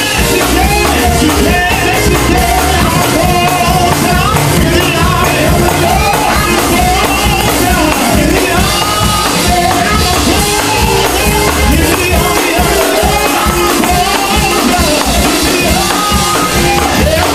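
Live gospel praise-and-worship music: voices singing over keyboard accompaniment, loud and continuous.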